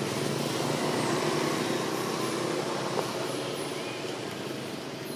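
Steady motor vehicle engine noise that slowly fades, with a single sharp click about three seconds in.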